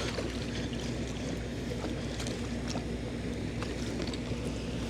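Steady low ambience on a fishing kayak on the water: an even wash of noise with a faint steady hum underneath and a few light scattered ticks.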